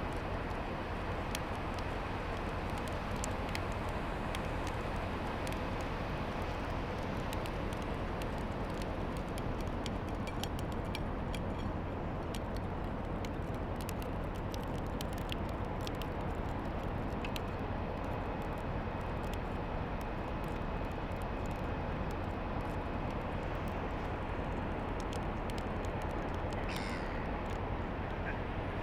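A kontiki longline winch runs steadily, winding in the set line, with scattered light clicks over a constant low hum.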